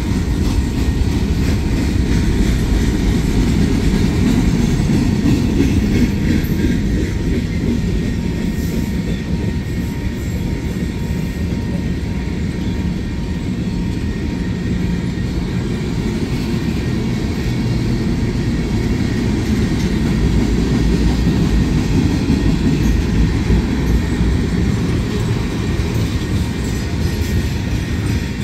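Freight cars of a passing train rolling steadily by on the rails: a continuous low rumble of steel wheels on track.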